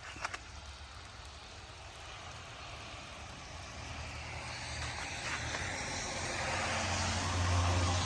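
A motor vehicle approaching, its low engine hum and broad tyre noise growing steadily louder. Two short clicks come right at the start.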